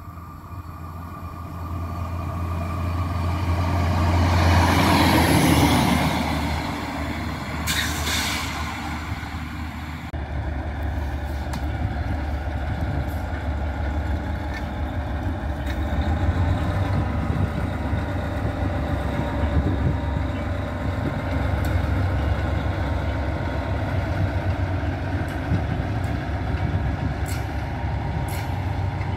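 A diesel railbus approaches and passes along the track, loudest about five seconds in, with a brief hiss around eight seconds. After an abrupt change about ten seconds in, a diesel shunting locomotive runs by with a steady low engine drone, hauling covered freight wagons whose wheels roll and clatter on the rails.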